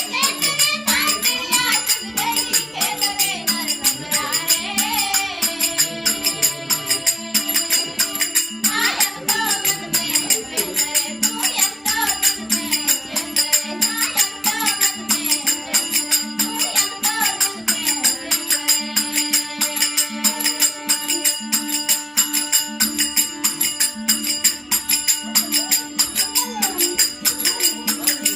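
Devotional bhajan music: singing voices over a fast, even jingling of hand percussion and a steady held drone tone.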